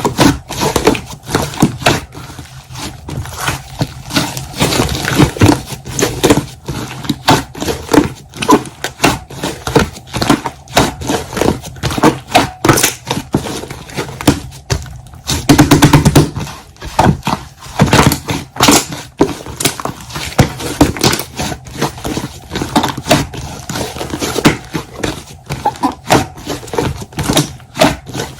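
Rapid, irregular clicks, taps and pops in a small room, with a louder stretch about halfway through.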